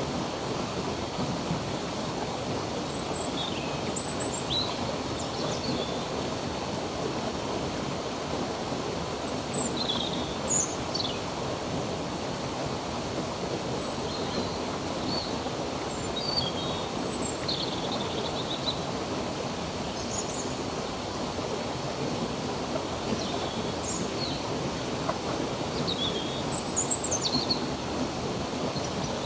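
Running water from a stream, a steady rushing hiss, with small birds giving short, high chirps on and off throughout.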